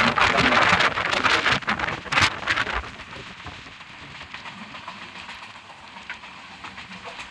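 Passenger train running at speed, heard from an open coach doorway: a loud rushing hiss with rapid clicking for the first three seconds or so, then a quieter, steady running noise.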